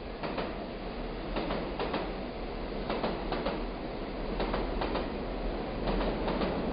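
Train rolling past with a steady rumble, its wheels clacking irregularly over the rail joints. It grows a little louder toward the end.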